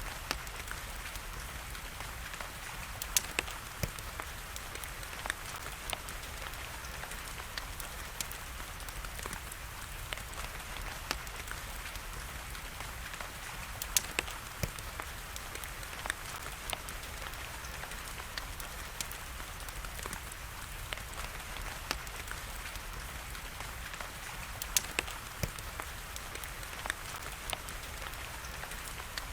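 Steady hiss of rain with scattered sharp pops and crackles of a wood fire, a few of them louder than the rest.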